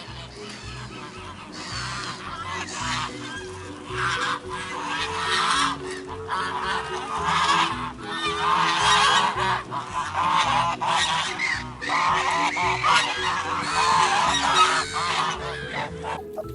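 A flock of birds calling together, many overlapping calls building up and staying dense, over soft background music.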